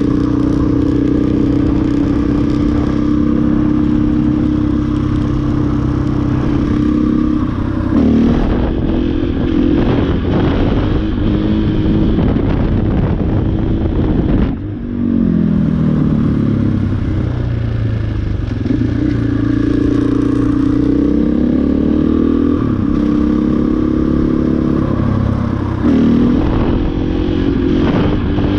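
A KTM 500 EXC single-cylinder four-stroke enduro bike is being ridden, its engine note steady for stretches. The note dips briefly about halfway through, then falls and rises with the throttle. The engine runs cleanly even though water was drawn in through the air filter, and the rider says it is running absolutely perfect.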